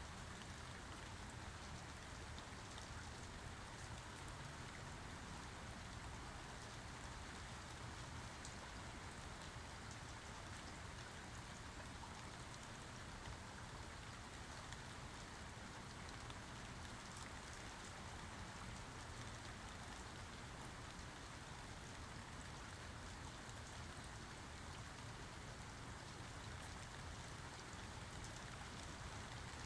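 Steady, fairly quiet rain falling, with fine scattered drop ticks over an even hiss and no thunder.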